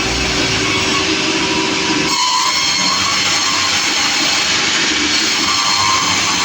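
Sawmill running, its saw and engine making a loud, steady noise; about two seconds in the low rumble drops away.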